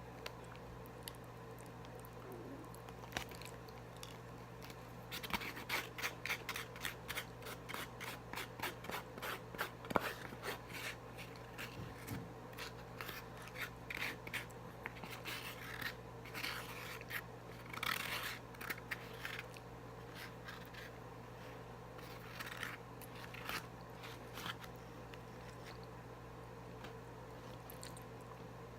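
Close-miked eating and food-handling noises: a dense run of small clicks and scrapes starting about five seconds in and thinning out near the end, over a steady low electrical hum.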